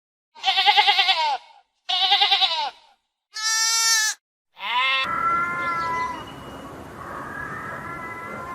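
Farm-animal calls cut one after another: two wavering calls about a second each, then a shorter higher call and another call. After that comes a steadier, noisier background with faint held tones.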